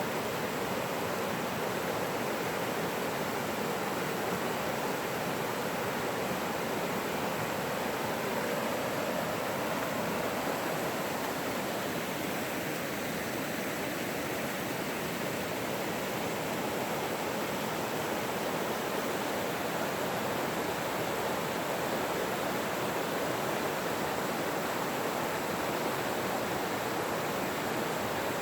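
Steady rush of a forest stream or creek running over rocks, an even noise without pauses.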